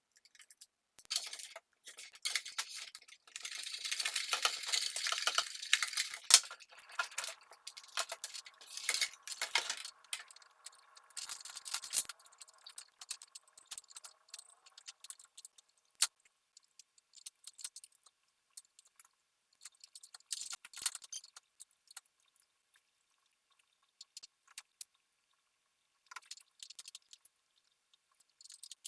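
Small hard metal and glass parts clinking and rattling as they are handled, with a ringing tone that fades out about midway, followed by scattered light clicks.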